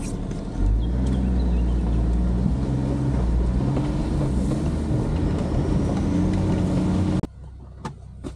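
Four-wheel-drive SUV engine heard from inside the cabin, pulling along a dirt track with its note rising and falling. About seven seconds in it cuts off abruptly, leaving a much quieter cabin with a few faint clicks.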